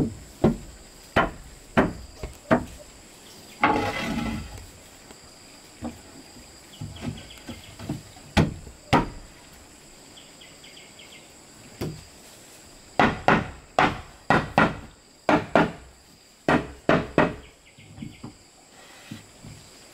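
Irregular hammer blows on wood, some single and some in quick runs of three or four. A longer scraping sound comes about four seconds in, with insects buzzing steadily throughout.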